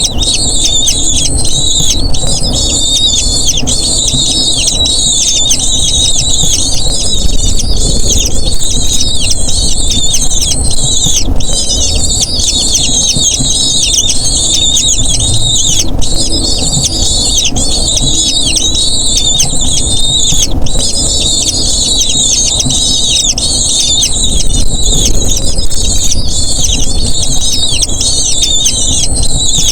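Eagle chicks begging: a continuous stream of many overlapping, high-pitched squealing calls, each a short falling note, over a low rumble.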